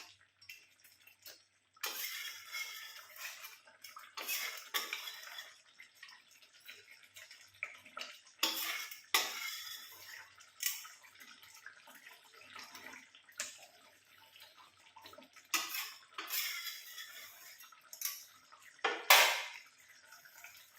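Spatula scraping and stirring chicken in a cooking pan, in irregular strokes with short pauses, the loudest near the end.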